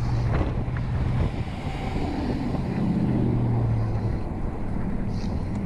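Wind rushing over the microphone of a camera on a moving road bike, with a steady low rumble. A low hum with a definite pitch rises out of it between about two and four seconds in.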